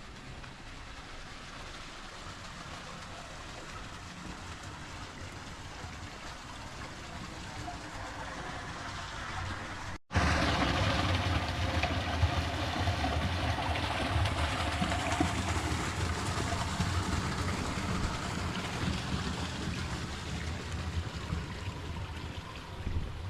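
Steady rushing water and rain, growing slowly louder. About ten seconds in it cuts out for a moment and returns much louder, with a deep rumble under the rush.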